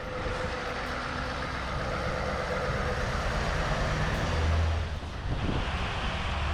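Scania 660 S V8 truck running on the road with a steady engine and road noise. A deeper engine rumble swells about four seconds in, and the sound shifts to a higher hiss just after five seconds.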